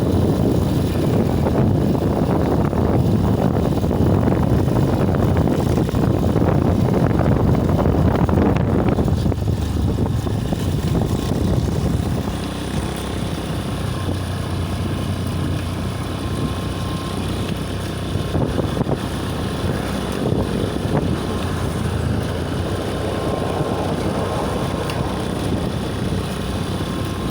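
Steady rush of wind and road traffic noise while cycling along a highway. It is louder for roughly the first twelve seconds, then eases to a lower level.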